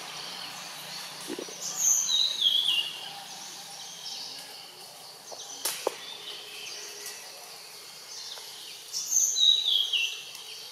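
A bird singing the same short phrase twice, about seven seconds apart: a high note, then a quick run of falling notes. A single sharp click comes in between.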